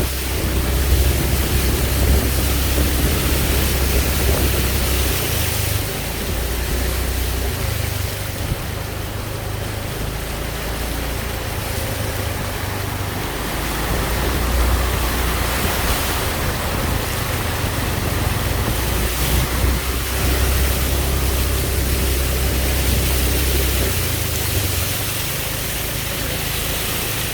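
Storm wind, a steady rushing noise, with gusts rumbling on the microphone.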